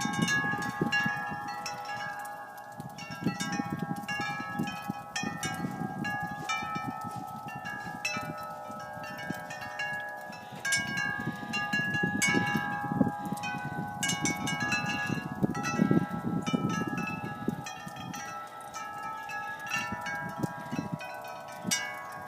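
Wind chimes ringing continuously, with many overlapping strikes whose tones hang on, over an uneven low rumble.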